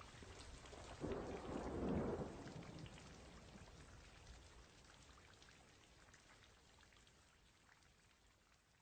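Steady rain with many small drop ticks, a low rumble swelling up about a second in and dying away, then the whole rain sound fading out slowly.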